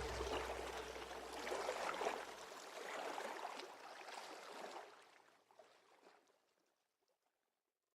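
Faint creek water gurgling, with small splashes, fading out about five seconds in to silence.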